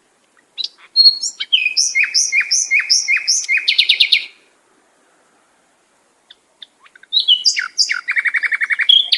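A songbird singing two phrases a few seconds apart. Each phrase is a series of clear, high, down-slurred notes, about three a second, ending in a fast trill.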